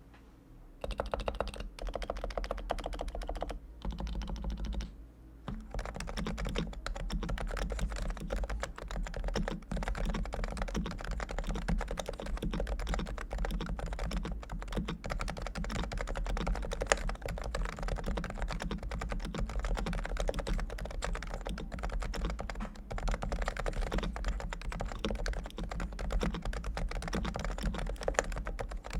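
Fast typing on a Realforce R2 Topre electrostatic capacitive keyboard with fully lubricated switches: a dense run of keystrokes that starts about a second in, with a brief pause around five seconds in.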